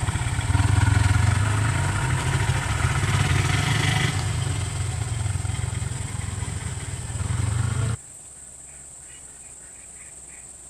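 A vehicle engine running with a dense, pulsing low rumble, which cuts off abruptly about eight seconds in. A much quieter outdoor background follows, with a short row of faint chirps.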